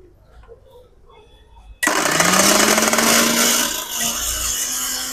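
Mixer grinder's 750-watt motor switched on about two seconds in, with its large stainless steel jar and six-blade assembly fitted. It starts suddenly, spins up with a rising whine, then runs loud and steady.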